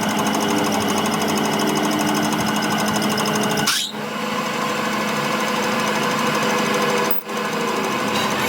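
A machine running steadily with a fast, rattling rhythm and a mix of steady tones. It drops out briefly twice.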